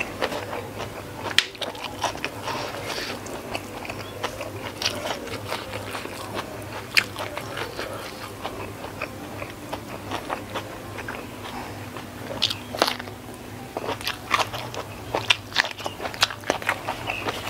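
Close-miked chewing and biting of a person eating rice with sardine, shrimp and petai sambal and raw lettuce by hand, made of many short wet clicks and small crunches.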